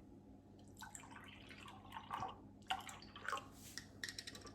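Faint kitchen handling noises: a scatter of small clicks, taps and brief rustles as an ingredient is measured into a bowl.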